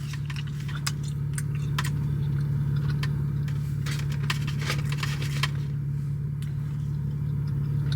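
Steady low hum of an idling car heard from inside the cabin, with scattered light clicks and rustles as fries are handled and eaten.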